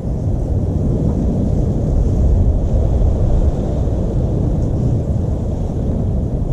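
Loud, steady low rumble of noise with no distinct events.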